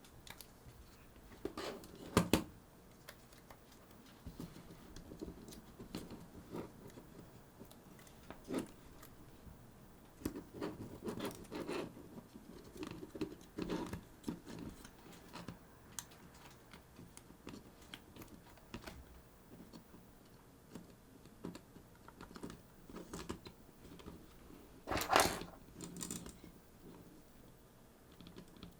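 Scattered small clicks, taps and scraping from hands handling small hardware parts while swapping the hard drive for an SSD in a Sony HVR-DR60 recording unit. There is a louder clatter about two seconds in and again near the end.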